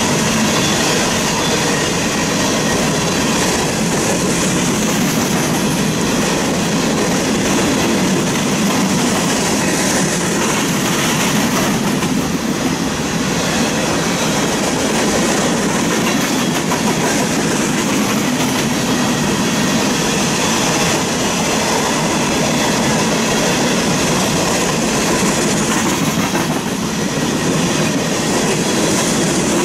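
Empty coal cars of a long freight train rolling past, their steel wheels on the rails making a loud, steady rolling noise.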